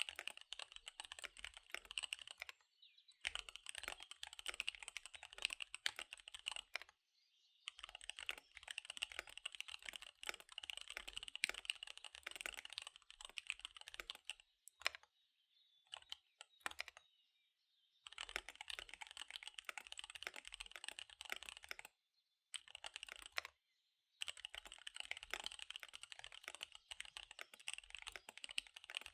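Fast typing on a KBD75 V3 mechanical keyboard with SP-Star Dark Magic Girl tactile switches and DSA keycaps: quick runs of keystrokes broken by several short pauses, with only a few scattered keystrokes in a longer pause a little past the middle.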